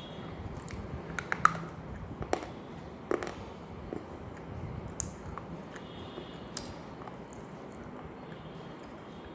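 Close-up mouth sounds of dry, crunchy food being bitten and chewed: a scattering of irregular sharp crunches and clicks, the loudest about one and a half seconds in.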